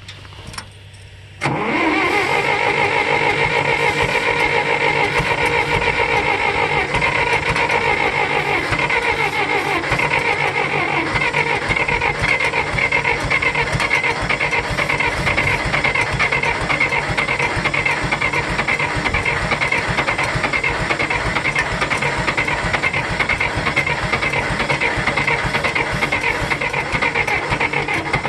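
Starter motor cranking the gasoline four-cylinder engine of a 1964 John Deere 1010 tractor, starting suddenly about a second and a half in and turning over steadily without the engine catching. It is a cold start after months of sitting, which the owner puts down to a carburetor that needs rebuilding.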